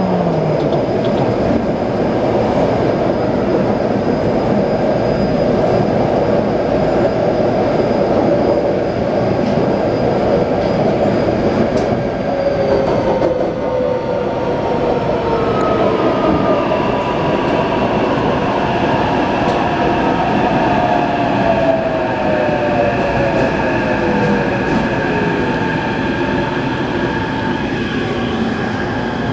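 Taipei Metro C381 train running, heard from inside the car: steady rumble of wheels on rail with the whine of the traction motors. In the second half the whine's several tones slide steadily lower, as when the train is slowing.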